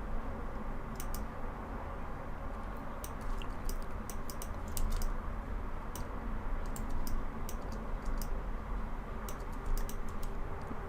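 Computer keyboard keys clicking irregularly, a few at a time with short gaps between, over a steady low hum.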